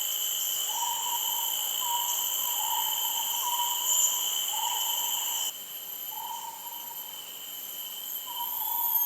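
An animal calling in a run of short hooting notes, roughly two a second, with a pause partway through. Behind it, insects keep up a steady high-pitched ringing.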